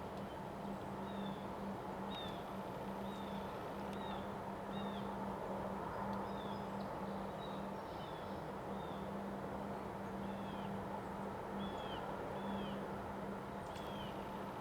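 A bird giving short, repeated chirps, roughly one or two a second, over a steady rush of wind noise, with a low steady hum underneath that drops out now and then.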